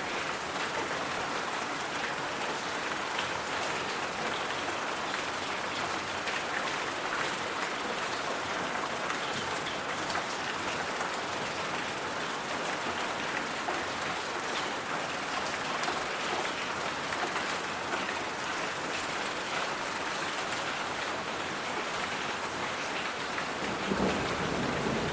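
Steady white-noise hiss with a fine, rain-like patter. A little before the end it grows fuller, with a deeper rumble underneath.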